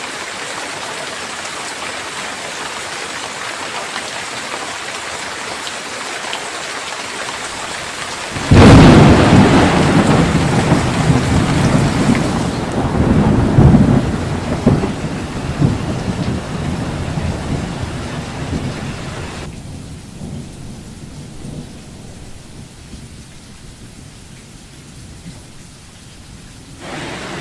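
Steady heavy rain, then about eight seconds in a sudden loud thunderclap that rolls on as rumbling thunder, swells again a few seconds later and slowly dies away. Toward the end the rain hiss drops out, leaving only a low rumble, until the rain comes back just before the end.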